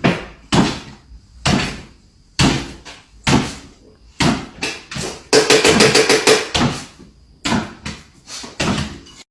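A series of knocks and bangs at irregular intervals, with a fast rattling run of strikes in the middle.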